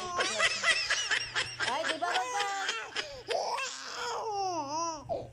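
A baby laughing in quick bursts of giggles, then a few longer wavering cries of laughter near the end.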